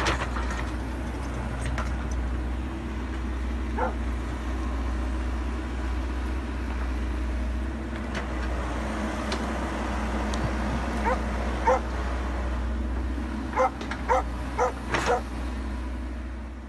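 Wacker Neuson mini excavator's engine running steadily, with short sharp yelping calls over it: once about four seconds in, then a quick run of five or six near the end.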